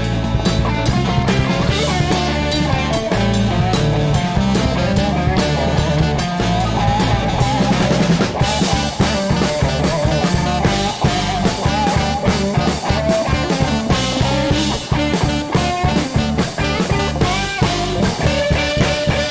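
Live band playing an instrumental passage of funky soul music: drum kit, bass and guitar, with a steady beat.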